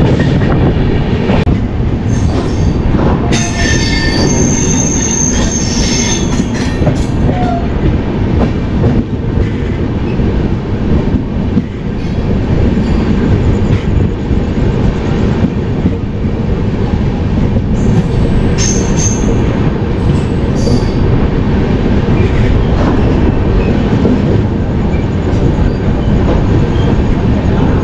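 Passenger train running on the rails: a loud, steady rumble of wheels and coaches, with high-pitched metallic squeals of the wheels a few seconds in and again about two-thirds of the way through.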